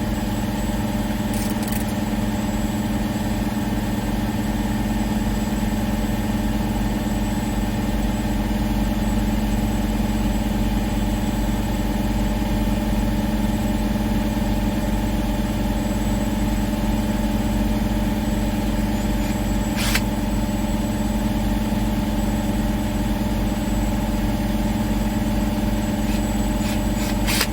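Truck engine idling steadily, a constant low drone, with a few small clicks: one about a second and a half in, one about twenty seconds in and a cluster near the end.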